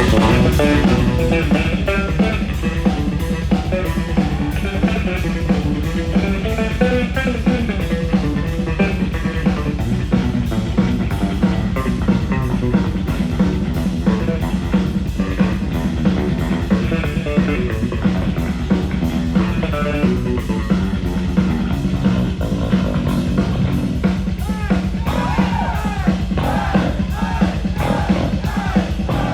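Heavy metal band playing live: electric guitar, bass and a drum kit with dense, driving drum strokes. A higher line of bending, wavering notes comes in during the last few seconds.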